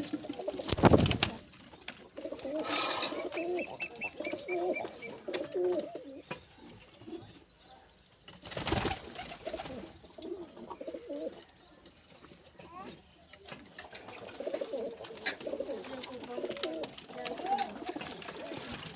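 Pigeons cooing, low and wavering, with two short loud noises, one about a second in and another about nine seconds in.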